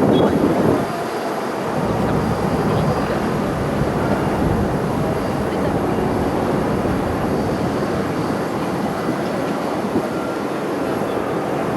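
Jet engines of a Boeing airliner running, a steady rushing noise, slightly louder in the first second.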